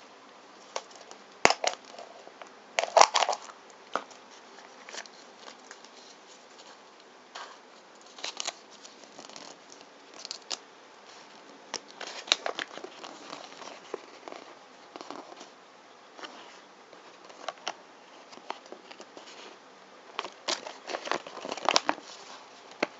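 Plastic packaging of a gacha capsule toy being handled and opened: irregular crinkling, tearing and sharp clicks of plastic, in bursts with short pauses between them.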